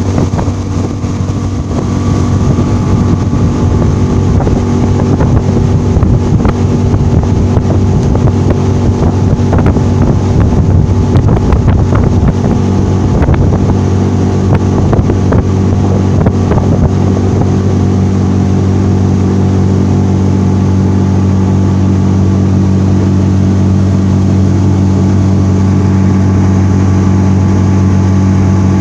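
Suzuki DF15A four-stroke two-cylinder outboard running steadily at high throttle, driving a loaded boat on a speed run. Through the middle stretch a string of irregular knocks and slaps breaks over the engine, then the engine note runs on evenly.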